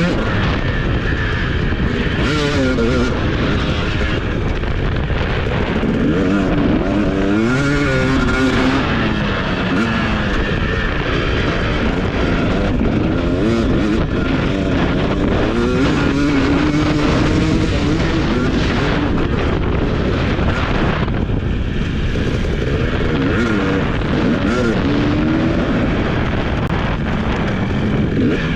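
TC250 motocross bike engine being ridden hard, its revs rising and falling again and again as the throttle is opened and shut.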